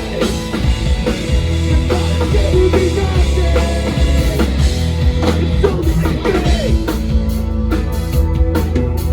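Rock band playing live: drum kit with bass drum hits, plus bass and electric guitar, in a continuous, loud passage of the song.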